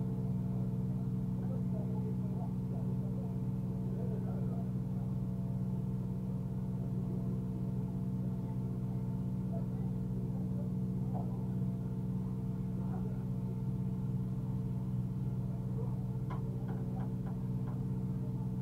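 Peugeot 207 rally car's engine running steadily at low, unchanging revs, with a few light clicks near the end.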